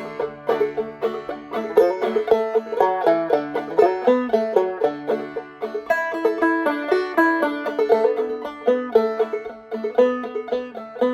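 Clawhammer banjo playing an instrumental break of the tune, a steady run of quick plucked notes.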